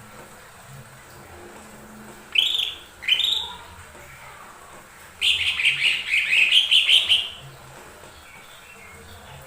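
Cucak ijo mini (lesser green leafbird) singing: two short chirps a little over two seconds in, then a fast warbling phrase lasting about two seconds.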